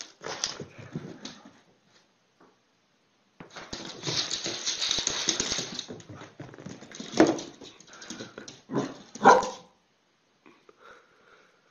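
Dog barking, with a few sharp barks about seven to nine and a half seconds in, after a few seconds of hissy noise.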